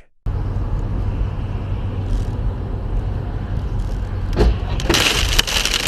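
Steady low rumble of a car driving, engine and road noise, with a louder hiss rising over it from about five seconds in.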